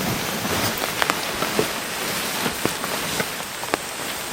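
Heavy rain pouring steadily, with scattered sharper drops striking close by.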